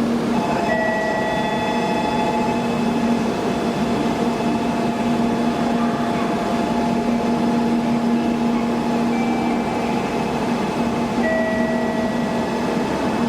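Shinkansen train noise at a station platform: a steady rumble with a constant low hum and higher steady whining tones that come and go.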